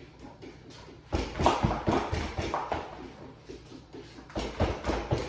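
A quiet first second, then clusters of quick knocks and thuds, loudest in bunches about a second and a half in and again near the end.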